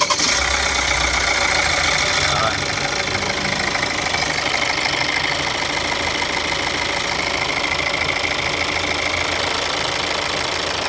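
Hyundai Santa Fe CRDi diesel engine catching right after cranking, running a little higher for about two seconds, then settling into a steady idle with diesel clatter. It starts promptly now that the leaking O-ring on the fuel return line has been replaced.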